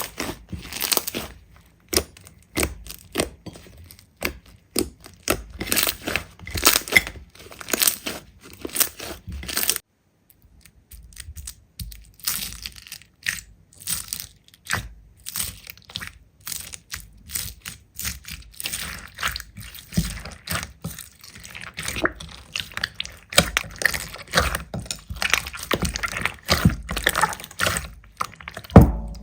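Hands squeezing and pressing slime, making a dense run of sticky clicks, pops and crackles. The sound stops briefly about ten seconds in, then goes on.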